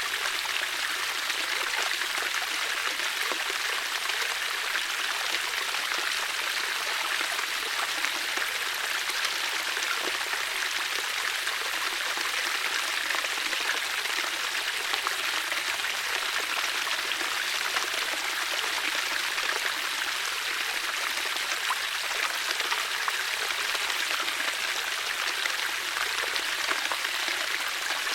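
Water flowing in a steady, even rush, like a stream.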